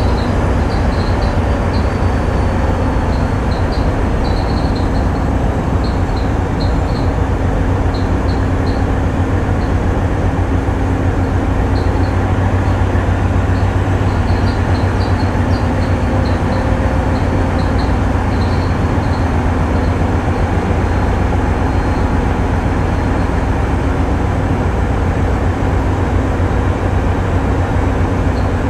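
A tugboat's diesel engines running with a steady, loud low drone.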